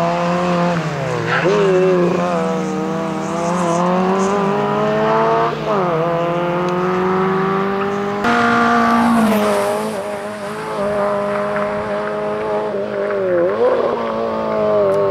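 Fiat Seicento rally car's small petrol engine revving hard: its pitch climbs and falls several times as the driver lifts off and shifts gear through a tyre chicane.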